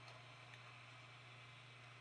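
Near silence: room tone with a faint steady low hum and a couple of faint ticks near the start.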